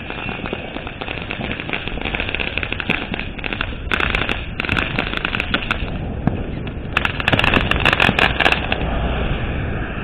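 Strings of firecrackers popping in rapid crackling runs, with a short dense burst about four seconds in and a longer, louder run near the end.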